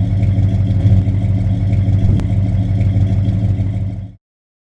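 A vehicle's engine running steadily with a low drone, cutting off abruptly about four seconds in.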